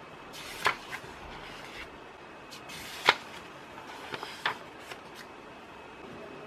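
A few short, sharp clicks and rustles of things being handled, three of them standing out, over a steady faint hiss.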